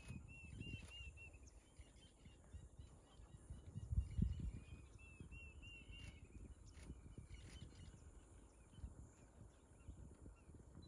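A bird calling: runs of quick, repeated high arched notes, one run at the start and another about halfway through. A brief low rumble around four seconds in.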